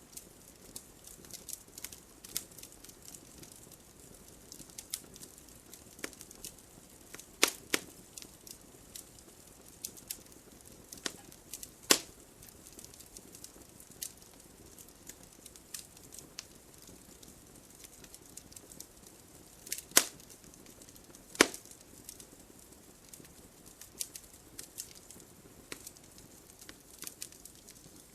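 Wood logs burning in a fireplace, crackling with frequent small snaps and pops over a faint steady hiss; a few much louder pops stand out, about 7 and 12 seconds in and twice around 20 seconds.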